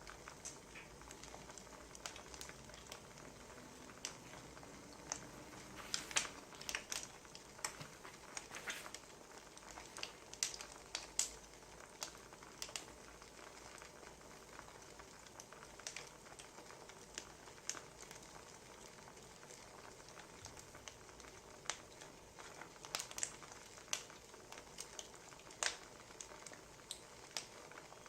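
Wood fire crackling: a soft steady hiss with irregular sharp pops and snaps scattered throughout, coming in small clusters.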